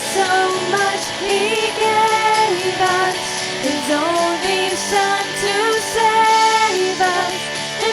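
Children singing a Christmas song with instrumental accompaniment, the voices holding and gliding between sustained notes.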